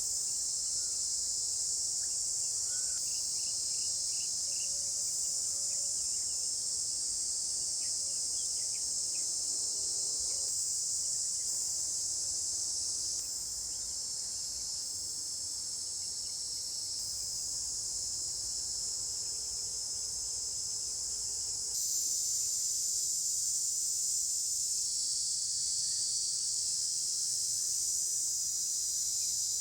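Steady, high-pitched chorus of insects, with small steps in loudness about thirteen and twenty-two seconds in.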